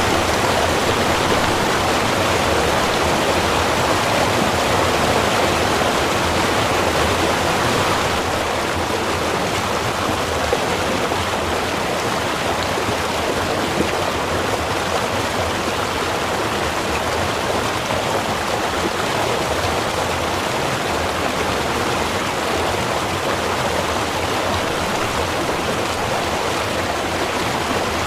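A small river or stream running steadily, a dense, even rush of water.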